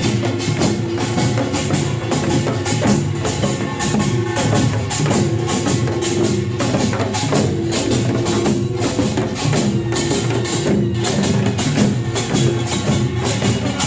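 Korean pungmul band playing: kkwaenggwari small gongs clanging in a fast, driving rhythm over janggu hourglass drums, buk barrel drums and jing gongs, with a held pitched line sounding in stretches over the percussion.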